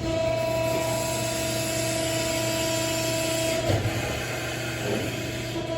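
Hydraulic system of a Cincinnati 175CB II CNC press brake running as the ram cycles: a steady pump whine over a low hum. About two-thirds through there is a short knock and the whine drops out, then it returns near the end. The tester takes the sound on these cycles for a little air in the hydraulics.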